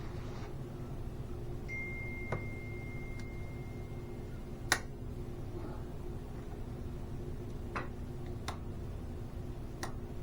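Sharp clicks and knocks from plastic vacuum-line quick-connect fittings being pushed together and pulled apart by hand, about six in all, the loudest about halfway through. A steady high tone holds for about three seconds before that loudest click, over a steady low hum.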